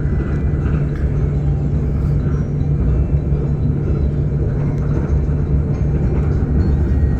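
KLIA Express train running along the track, heard from inside the carriage: a steady low rumble with a constant hum underneath.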